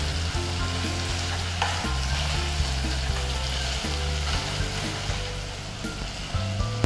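Chicken pieces sizzling in an uncovered pan as the last of the curd liquid boils off and the dish turns dry.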